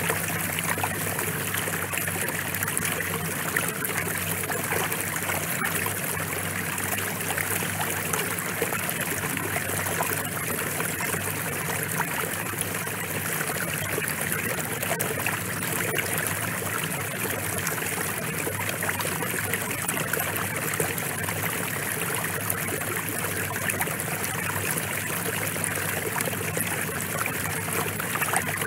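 Steady rain falling, an even patter of many small drops.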